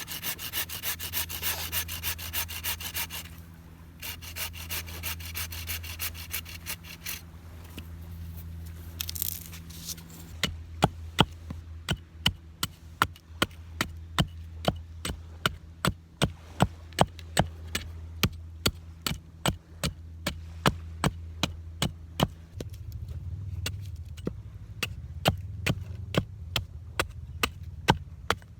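Hand saw cutting firewood in quick back-and-forth strokes, with a short pause partway. About ten seconds in, sharp wooden knocks begin, about two to three a second, as wood is chopped or split. A steady low rumble runs underneath.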